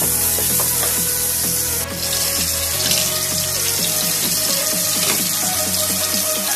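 Chopped onion sizzling in hot oil in a nonstick pot as it is stirred with a wooden spoon, a steady hiss under background music.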